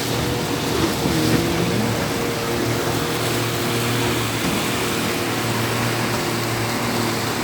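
Motorboat engine running steadily at speed, a constant hum under the rush of water and wind.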